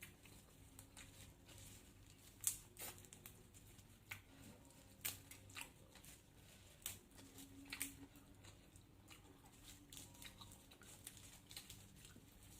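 Close-up eating sounds: chewing with irregular sharp, crisp crunches and clicks, the loudest about two and a half seconds in.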